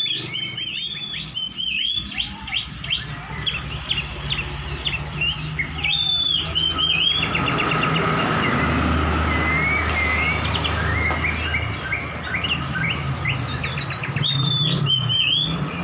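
Oriental magpie-robin singing a varied, rapid song of whistled notes, slurs and fast chattering runs, over a steady low hum.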